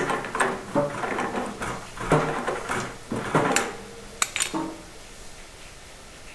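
Clinks and knocks of black iron pipe fittings being handled and screwed together, stopping about four and a half seconds in, over a steady background hiss of water draining out of the old water heater tank.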